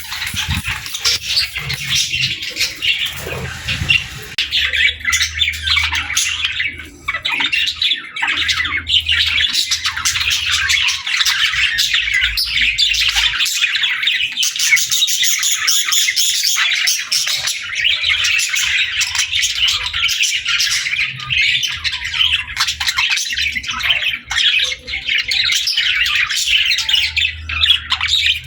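Budgerigars chattering: a dense, continuous stream of rapid chirps, warbles and squawks.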